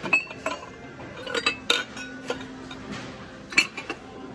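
Ceramic mugs clinking against each other and the metal shelf as they are picked up and shifted by hand: about half a dozen sharp clinks with short ringing, the loudest a little after three and a half seconds in.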